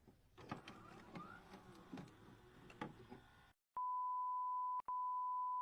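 A steady, high-pitched electronic beep tone starts about four seconds in, with one brief break. Before it there is only faint background noise with a few light clicks.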